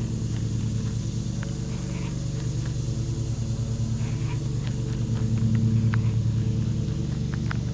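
Boat motor running steadily with a low hum, swelling slightly about five seconds in.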